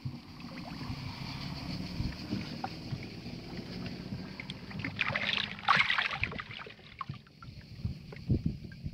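Old Mercury 20 hp Thunderbolt outboard with its propeller turned by hand, the lower unit making a strange noise. A low steady hum runs through the first half, then a louder hissing, rattling burst comes a little past halfway, with a few short knocks near the end.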